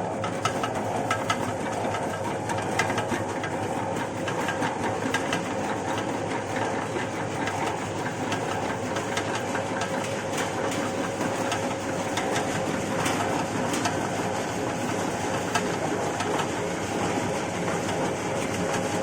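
Peanut-crushing machine running steadily, a constant motor hum with a continual scatter of small sharp clicks and crackles from the peanuts being broken up.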